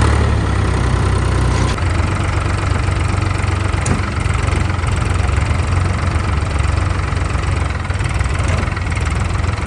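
Tractor diesel engine running steadily, its sound heaviest in the low range, with one brief click about four seconds in.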